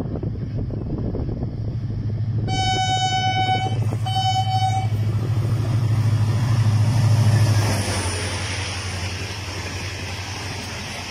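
Diesel locomotive of an express passenger train approaching and passing at speed. Its low engine drone grows louder, and its horn sounds two blasts, a longer one about two and a half seconds in and a shorter one about four seconds in. As the locomotive goes by, about eight seconds in, the drone drops away into the steady rushing noise of the coaches running past.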